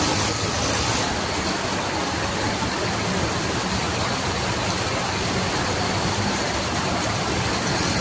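Heavy rain falling: a loud, steady hiss with a low rumble underneath.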